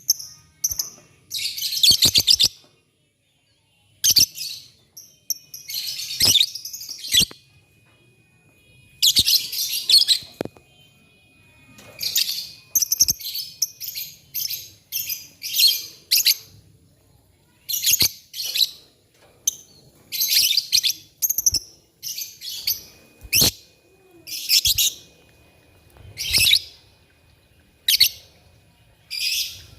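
Lovebird chattering in a long series of short, high-pitched, rapid bursts, one every second or two, with a few sharp clicks between them.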